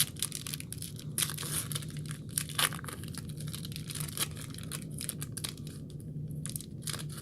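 Foil trading card pack wrapper crinkling and tearing as it is opened by hand, a run of irregular crackles and rustles.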